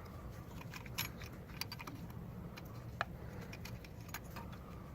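Light metallic clicks and clinks of small metal parts and hand tools being handled, a few sharp ones spread out over several seconds, over a faint low hum.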